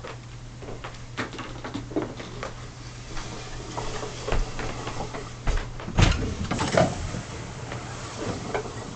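Scattered knocks and light clattering of things being handled, with the loudest bumps about six to seven seconds in, over a faint low hum; no vacuum motor is running.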